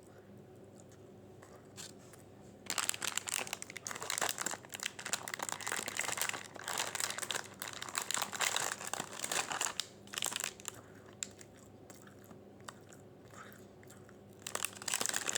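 Paper food wrapper being crinkled and crumpled by hand, in a long run of dense crackling with a short second burst near the end.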